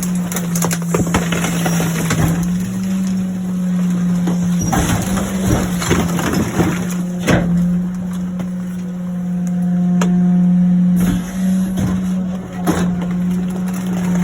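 Garbage truck compactor running with a steady low hum while a plastic ride-on toy cracks and snaps as it is crushed, with loud sharp cracks at intervals.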